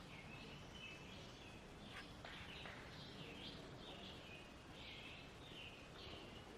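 Faint birdsong: many short, high chirping notes repeating over a low steady hiss of outdoor ambience.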